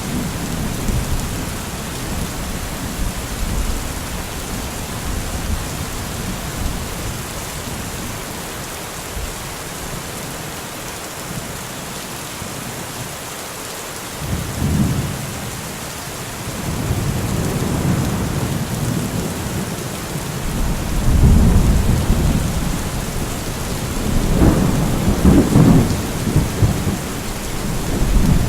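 Steady rain falling, with rolling thunder underneath. The rumbling dies away in the first half, then returns about halfway through in several swells that grow, loudest near the end.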